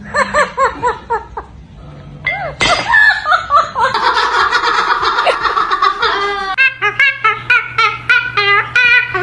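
Parrot imitating laughter: a run of short 'ha-ha' calls, about four a second at the start, then a denser stretch, then evenly spaced short calls near the end.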